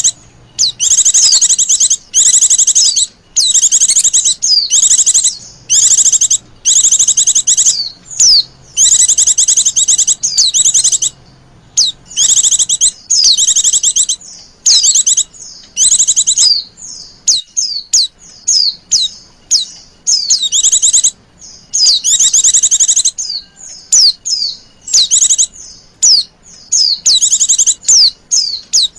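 Female white-eye (pleci) giving rapid, high chattering trills in quick bursts of about a second or less, one after another with short gaps. It is the coquettish call a female uses to draw in males.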